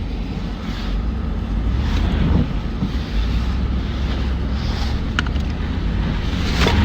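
2009 Jeep Commander's 5.7-litre Hemi V8 running steadily while driving through snow, a loud low rumble under a haze of road noise, with a few short clicks in the second half.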